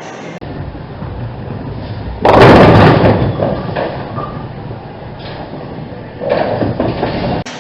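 Bowling pins crashing as a bowling ball hits them: one loud crash about two seconds in that dies away into rumble, and a second clatter near the end.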